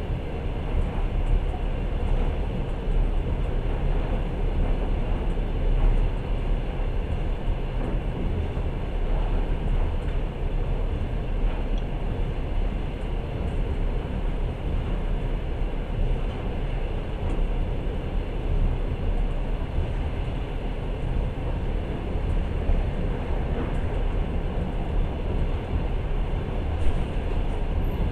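Passenger train running along the track, heard from inside the carriage: the steady running noise of wheels on rails, strongest in the low end, with no clear breaks or events.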